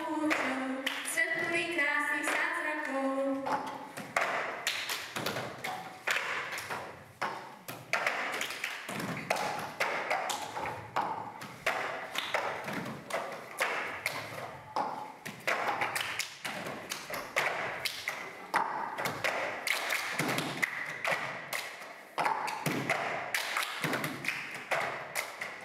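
A sung line fades out in the first few seconds, followed by a long run of irregular taps and thumps, like feet stepping and stamping on a stage floor during a dance.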